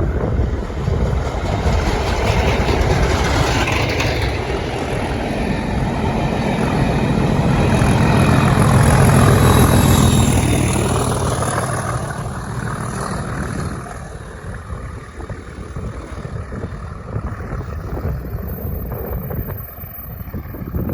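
Test train passing at speed, propelled from the rear by a Class 37 diesel locomotive: the rumble of the train and the locomotive's English Electric engine builds to a peak about nine seconds in, then fades away, dropping off sharply at about fourteen seconds.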